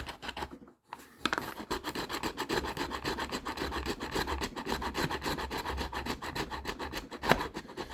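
A large hand file rasping back and forth across a hard plastic case, widening a cut-out opening, in quick even strokes that start about a second in. There is one sharp click near the end.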